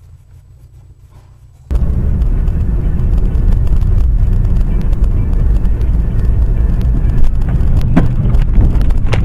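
Faint low hum, then a sudden cut to loud, steady, low rumbling vehicle noise, with a couple of sharp clicks near the end.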